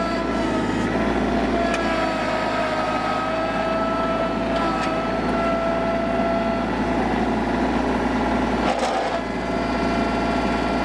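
Mahindra eMax 25 compact tractor's three-cylinder diesel engine running steadily while pulling a scraper blade through dirt. Its pitch sags a little about two seconds in, under the load, then recovers, and a few light knocks come from the blade and hitch.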